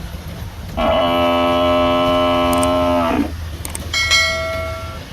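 A long, steady horn blast of about two and a half seconds that sags slightly in pitch as it ends. About a second later comes a shorter, higher-pitched horn toot, over a low engine hum.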